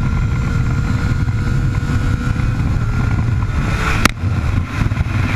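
A 2009 Triumph Street Triple 675's three-cylinder engine running through a full Arrow 3-into-1 exhaust while riding, heard from a chest-mounted camera and heavily masked by low wind noise. A single sharp click comes about four seconds in, and the level dips briefly after it.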